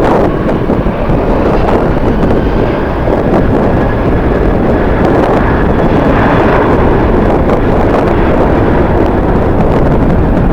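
Strong wind buffeting the microphone, a loud steady rushing, with the roar of jet airliner engines under it.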